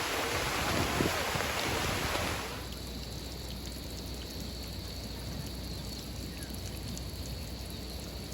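Steady rush of moving water mixed with wind on the microphone; the brighter hiss drops away suddenly about two seconds in, leaving a lower, duller rush.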